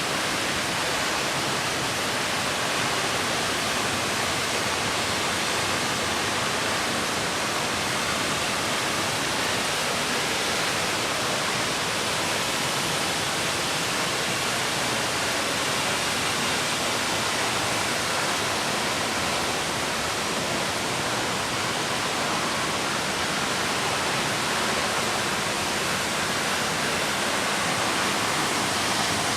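Mountain creek water rushing, a steady even rush with no breaks.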